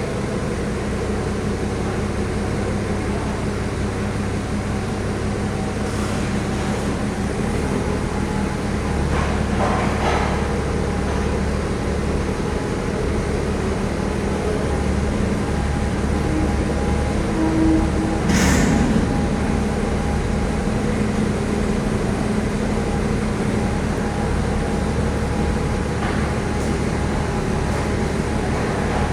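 Heavy vehicle engine running steadily at low revs, with a brief sharp high squeal about two-thirds of the way through and a short rattle near the 10-second mark.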